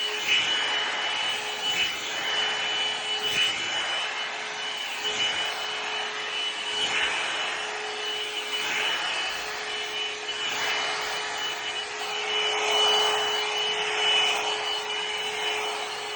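Hair dryer running with a steady motor whine under its airflow noise, the rush of air swelling and fading every second or two as it is moved about.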